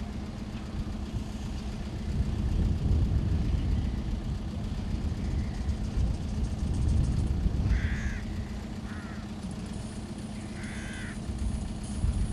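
Steady low outdoor rumble with a constant low hum underneath, and a bird giving about three short harsh calls in the second half. A thin high whine comes in near the end.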